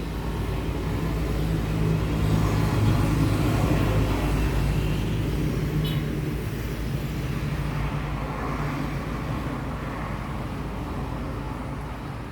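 Road traffic: a motor vehicle's engine hum that swells to its loudest a few seconds in, then slowly fades as it goes by.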